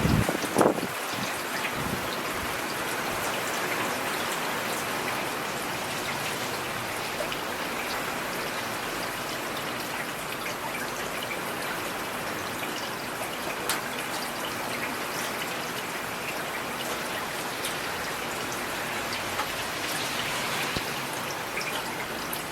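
Steady rain, with scattered individual drops ticking sharply through the hiss and a brief low thump about half a second in.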